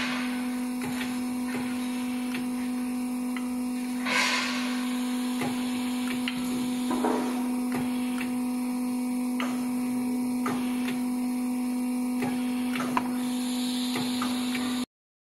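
Steady electric hum of a tyre retreading machine, with scattered clicks and knocks and a short hiss near the start and again about four seconds in. It cuts off abruptly just before the end.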